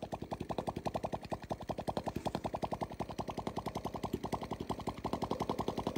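Suzuki Smash 110cc single-cylinder four-stroke engine running on a test stand at idle, with an even, rapid popping of about a dozen firing pulses a second.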